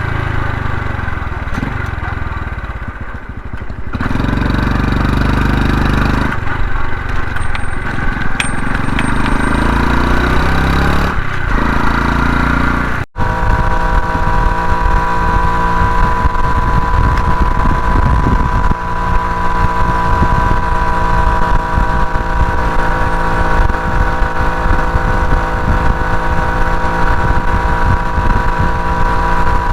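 Honda Hunter Cub's single-cylinder engine running under a rider. After a break about halfway through, it holds a steady drone at an even speed, with wind on the microphone.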